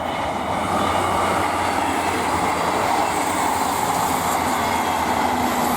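A South Western Railway pair of Class 158 and Class 159 diesel multiple units passing at speed, a steady, unbroken rolling noise of the train on the track.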